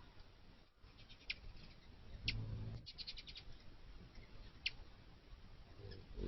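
Faint, sharp chip calls from a small bird, a few seconds apart, with a quick rattling run of ticks about three seconds in and a soft low thump just before it.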